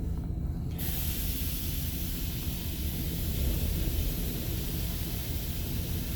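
Laser Wash M5 touchless car wash spraying onto the vehicle, heard from inside the car: a steady hiss of spray starts suddenly about a second in, over a low rumble.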